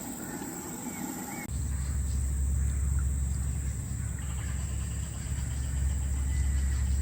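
Steady high-pitched drone of rainforest insects. About a second and a half in, a loud low steady rumble comes in suddenly and stays.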